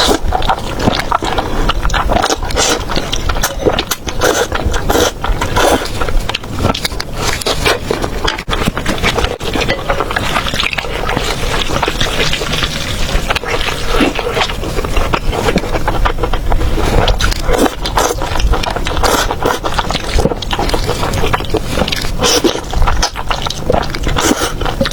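Close-miked eating sounds: chewing, with a dense run of small irregular clicks.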